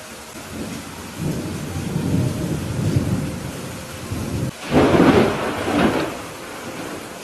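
Thunderstorm: steady rain with thunder rumbling low from about a second in, then a sudden louder clap of thunder a little past halfway that dies away over a second or so.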